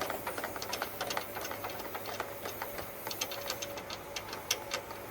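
Rapid, irregular ticking and rattling of nest material and lint being blown out through a dryer vent duct by a leaf blower, over a faint steady whine.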